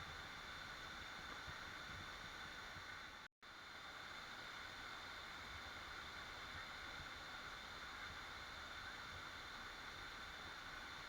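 Waterfall: a steady rush of falling water, which cuts out completely for a split second about three seconds in.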